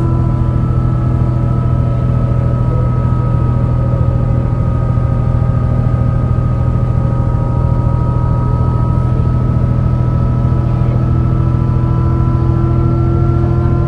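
MAN NL202 CNG bus engine running under load, with the ZF Ecomat five-speed automatic gearbox giving a steady whine that dips slightly in pitch in the middle and rises again near the end. The engine has a bad misfire.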